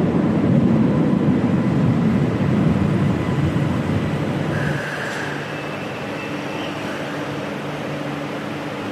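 Stuttgart Stadtbahn light-rail train rumbling along the track. About five seconds in the rumble drops off to a quieter, steady hum with a held tone.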